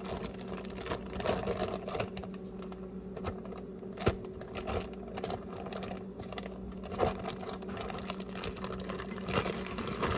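Plastic bag rustling, with irregular small clicks and knocks, as raw chicken drumsticks are stuffed into it; one sharper click about four seconds in. A steady low hum runs underneath.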